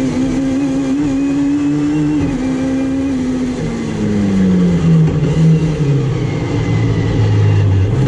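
Racing hatchback's engine heard from inside the cockpit, held at high revs, then the revs fall steadily over about four seconds as the car slows, with a brief rise right at the end.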